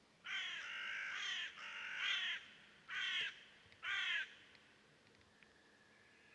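A bird giving four harsh, raspy calls in quick succession, the first two longer and the last two short.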